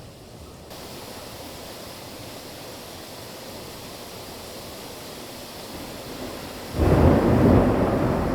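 Steady hiss of a heavy summer downpour, with a loud low rumble of thunder breaking in near the end and rolling on.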